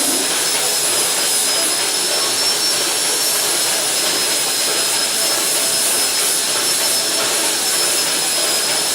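Concrete compression testing machine running steadily while it loads a test sample, a constant hiss with two thin high whines held throughout.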